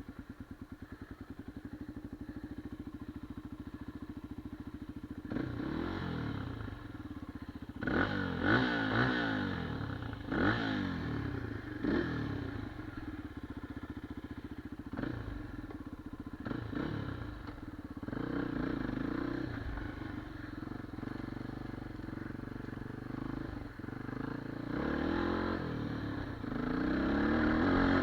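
Enduro motorcycle engine idling steadily, then revved in repeated bursts that rise and fall in pitch, under load on a muddy hill climb, with some clattering.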